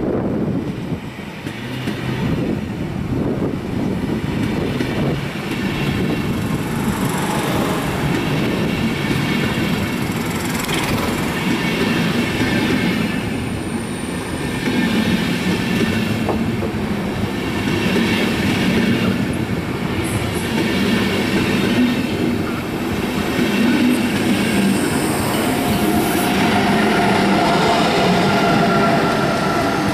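A DB InterCity push-pull train rolling slowly past, control car first and a class 101 electric locomotive at the rear. The wheels clatter regularly over the rail joints with brief high wheel squeals. A steady hum from the locomotive rises as it passes near the end.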